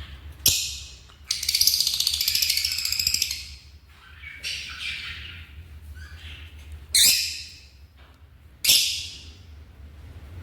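African lovebirds giving shrill squawks and screeches: a sharp call, then about two seconds of harsh chattering, followed by a few short piercing screeches spaced a couple of seconds apart.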